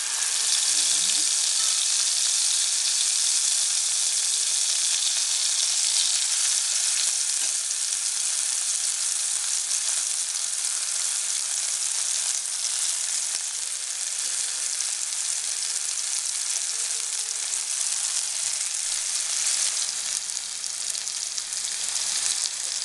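Marinated chicken tikka pieces sizzling in hot oil in a non-stick pan as they are added one by one: a steady, high hiss of frying.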